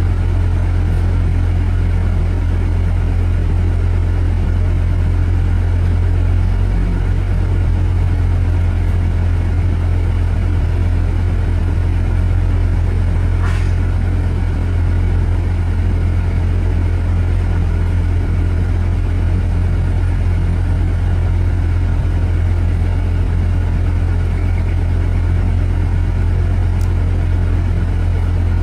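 Steady low rumble of road traffic, with one brief faint high-pitched sound about halfway through.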